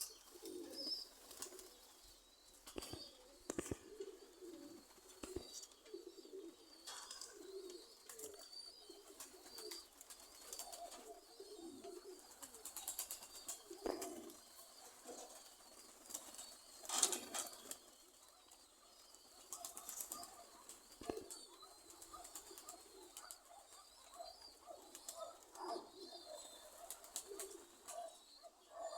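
Domestic pigeons cooing softly around the loft, with scattered wing flaps and clicks and one louder flurry about seventeen seconds in.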